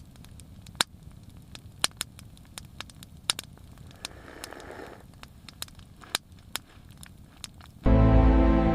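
Wood fire crackling: sharp, irregular pops and snaps over a faint hiss. Music comes in near the end.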